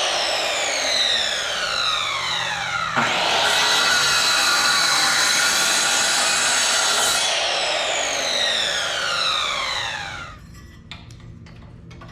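Electric saw with a freshly cleaned blade cutting wood. Its motor whine falls as it winds down, it starts again about three seconds in for a second run, then winds down again with a falling whine and stops about ten seconds in, followed by a few light clicks. The blade has been cleaned of pitch and gunk and cuts with less downward force.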